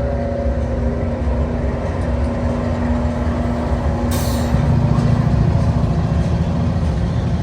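Diesel freight locomotive engine running with a steady low drone, and a short burst of air hiss about four seconds in, after which a lower engine tone joins in.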